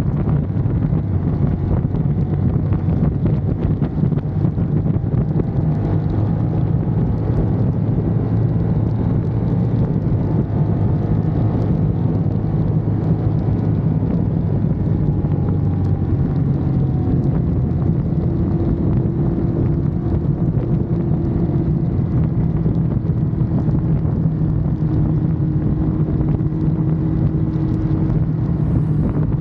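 Ducati Monster's L-twin engine running steadily at cruising speed, with wind rushing over the camera microphone.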